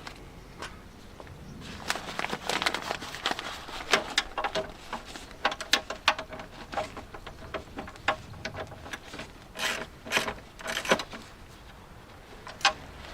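Irregular clicks, taps and light metallic rattles of hands and small tools working on a car door's lock parts and fasteners, thickest through the middle, with one last sharp click near the end.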